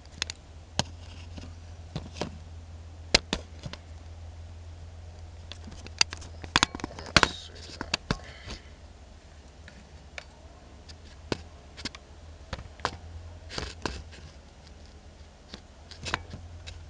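Scattered sharp metallic clicks and scrapes of a 5/8 socket being pushed onto and turned on a semi truck's clutch adjusting bolt, loudest near the middle, over a steady low hum.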